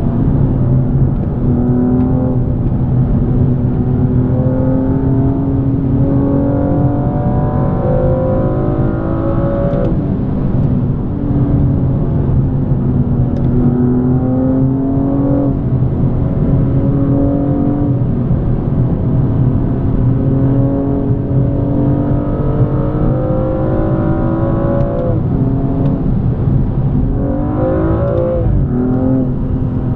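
BMW M235i's turbocharged 3.0-litre straight-six pulling under acceleration, its pitch climbing slowly and dropping sharply at each of three upshifts. Near the end the engine note makes a quick rise and fall.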